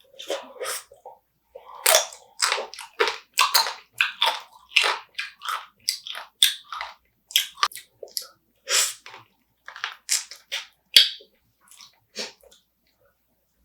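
Close-miked chewing of spicy marinated crab: an irregular run of sharp, wet crunches, a few each second.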